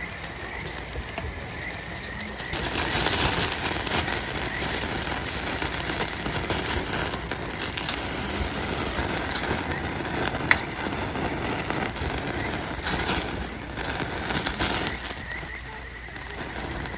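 Skewered food sizzling on a grill over a campfire: a loud hiss that starts suddenly a couple of seconds in and eases near the end, with a few sharp pops.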